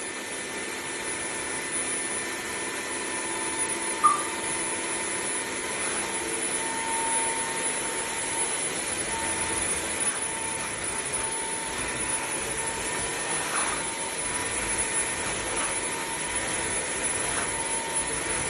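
Bissell CrossWave OmniForce cordless wet-dry vacuum running steadily, a constant motor whine and rush of air. There is a short high chirp about four seconds in.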